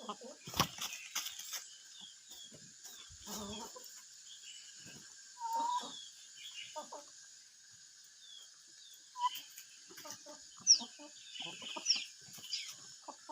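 Free-range chickens clucking in short, scattered calls, with a few sharp taps and some quick, high, falling chirps near the end.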